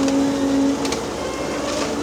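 Tracked demolition excavator working on a bridge: steady machine noise with a pitched hydraulic whine that fades about a second in, and a faint click.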